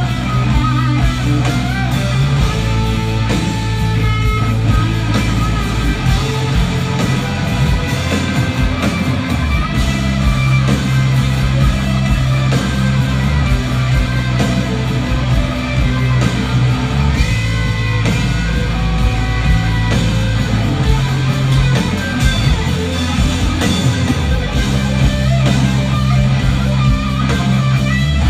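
Loud live rock music with no singing: electric guitar playing melodic lead lines over steady bass and drums.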